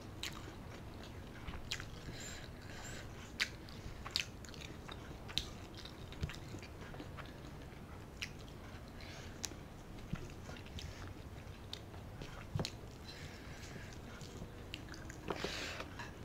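Close-miked chewing of rice and curry: irregular wet mouth clicks and smacks, with fingers mixing the food on a steel plate.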